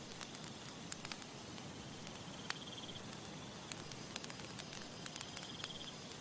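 Campfire crackling: irregular sharp pops and snaps over a steady soft hiss. Short high insect trills come in twice, about halfway through and near the end.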